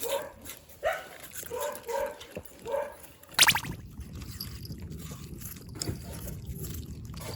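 Dogs whining with short, pitched cries, then one sharp, high-pitched yelp about three and a half seconds in. After that a steady low rush of running water sets in.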